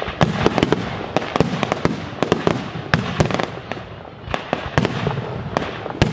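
Fireworks display: a rapid string of aerial shell bursts, several sharp bangs a second, with a short lull about four seconds in.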